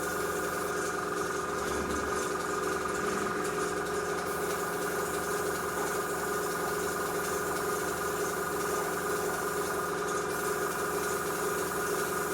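Airbrush compressor running with a steady hum, with the hiss of air through the airbrush as it sprays.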